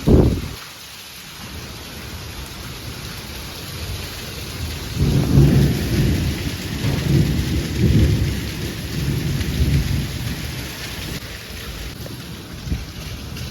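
Steady heavy rain with thunder: a sudden loud clap right at the start, then a long low rolling rumble from about five to ten seconds in.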